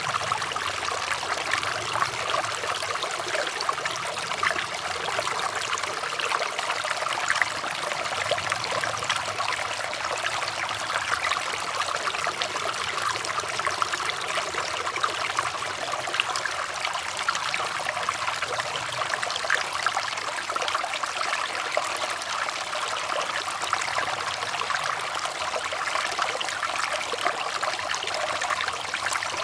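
Water running and trickling steadily, as from a small stream or brook, with a continuous bright splashing.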